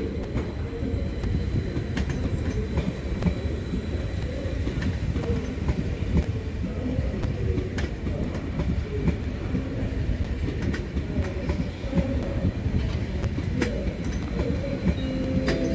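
Electric train running slowly through a station: a steady low rumble with scattered clicks from the wheels.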